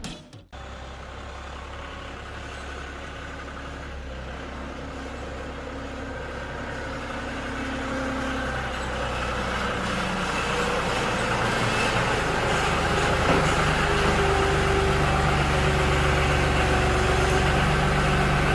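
John Deere 5055D tractor's diesel engine idling steadily, growing gradually louder.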